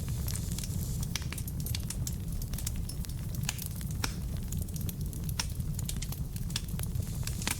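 Wood fire burning in a fireplace: a steady low rumble of flame with frequent, irregular sharp crackles and pops from the burning logs.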